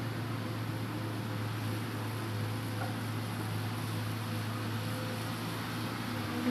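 Hitachi Zaxis 200-5G excavator's diesel engine running at a steady pitch, a constant low hum with a faint higher tone above it.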